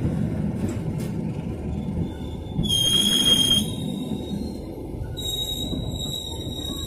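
Passenger train rolling slowly into a station with a low steady rumble. A high-pitched metallic squeal comes in about three seconds in, and another starts about five seconds in and holds to the end.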